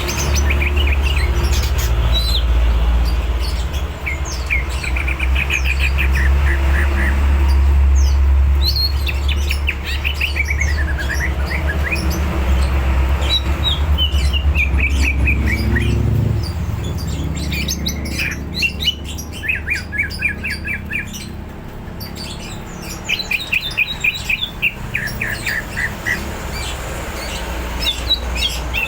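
Green leafbird (cucak ijo) singing persistently in full song: short phrases of rapid repeated chirps and whistled glides, one after another. A steady low hum runs underneath, heaviest in the first half.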